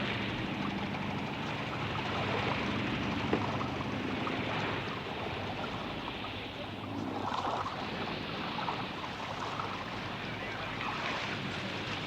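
Open sea and wind noise with a steady engine running under it; the engine sound fades about halfway through.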